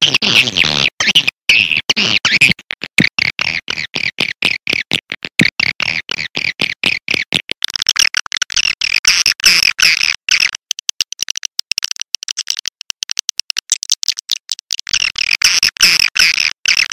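Swiftlet calling-sound recording: dense, rapid high twittering chirps mixed with many sharp clicks, a lure track of the kind played from swiftlet houses to draw birds in.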